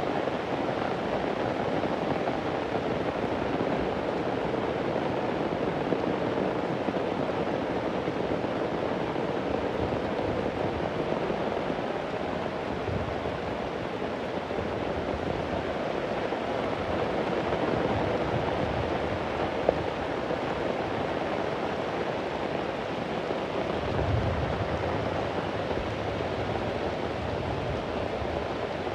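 Heavy rain falling steadily, with a low rumble of distant thunder about three-quarters of the way through and a single sharp tick a little past the middle.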